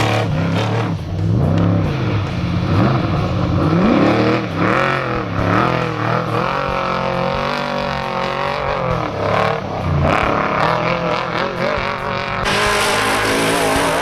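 Trophy truck engine revving hard, its pitch climbing and dropping again and again under changing throttle. Near the end a loud hiss joins in.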